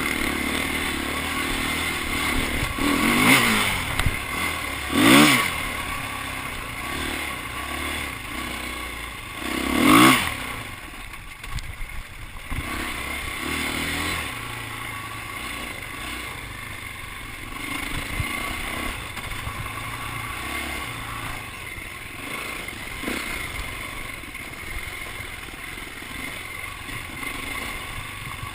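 Dirt bike engines, with three loud close passes at about three, five and ten seconds in, the engine pitch dropping as each goes by. Engines run more distantly the rest of the time.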